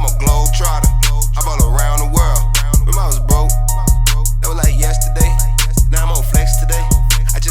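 Hip hop track with heavy, steady bass and a kick drum hitting a little under twice a second, with a rapping voice over the beat.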